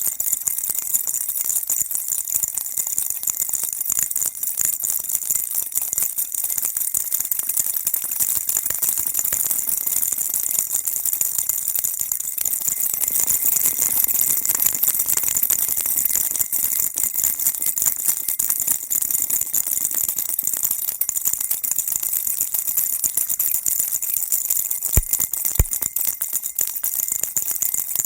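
Baby rattle shaken without pause, a dense high jingling rattle. Two sharp knocks sound close together near the end.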